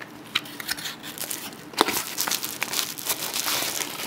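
Small cardboard lens box being opened by hand and its plastic and bubble-wrap packing handled. There are scattered clicks and a sharp snap about two seconds in, then a stretch of crinkling.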